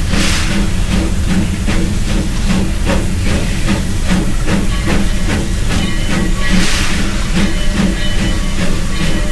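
Steam locomotive working, with steam hissing over a steady low rumble and an even beat of about three strokes a second. Two louder bursts of hiss come just after the start and about six and a half seconds in.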